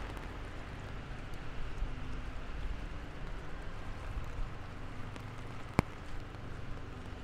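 Steady rain pattering on a city street, with a low vehicle rumble underneath. A single sharp tap stands out a little before the end.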